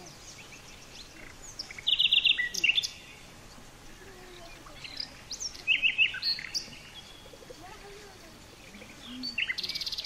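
Rapid, high-pitched bird chirps in three loud bursts: about two seconds in, again around five to six seconds, and near the end.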